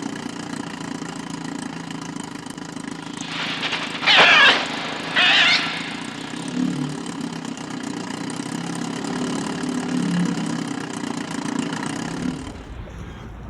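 Two loud, harsh animal calls about a second apart, most likely from an attacking bird, over a steady low engine-like hum that fades out near the end.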